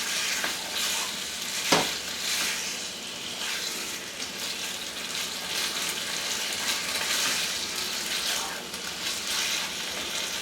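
Sliced chicken sizzling in hot oil in a frying pan, a steady hiss, with one sharp tap of a utensil against the pan about two seconds in.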